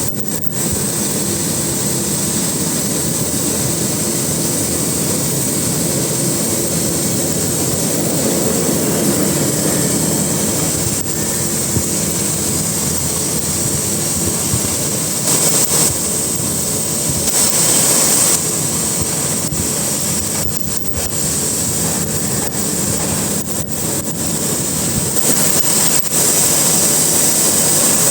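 Cutting torch running with a continuous hissing rush of gas and flame, with small dips and swells in level.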